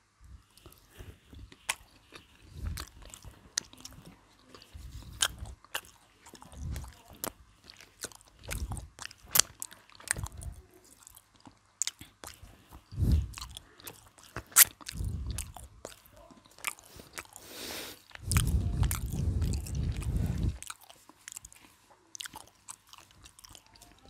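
Close-miked chewing and biting of cold McDonald's fried chicken: the crisp breading crunches in sharp crackles between short bouts of chewing, with a longer, louder stretch of chewing about three-quarters of the way through.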